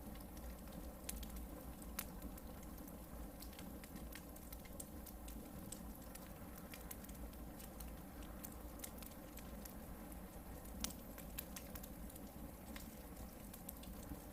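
Hardwood campfire burning, with scattered crackles and small pops over a low steady hiss; one sharper pop about eleven seconds in.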